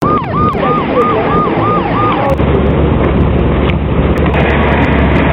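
Police car siren on a fast yelp, rising and falling about three times a second. It cuts off after about two seconds, giving way to steady loud vehicle and road noise with a low hum.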